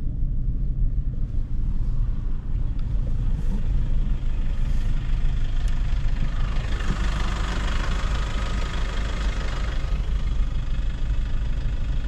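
A car's engine and road noise heard from inside the cabin as a steady low rumble, with a broad hiss swelling for a few seconds in the middle and fading again.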